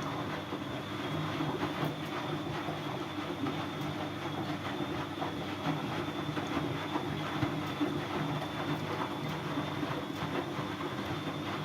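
Siemens Siwamat C10 washing machine running: a steady mechanical rumble with a motor hum and a faint high whine, plus scattered small clicks and rattles.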